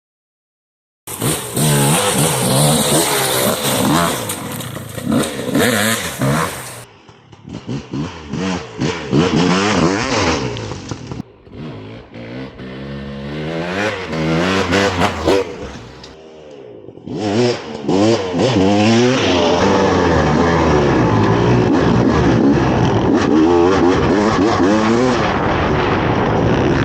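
KTM 300 SX single-cylinder two-stroke dirt bike engine ridden hard, revving up and down repeatedly with several brief drops off the throttle, then held high and steady near the end. It starts suddenly about a second in after silence.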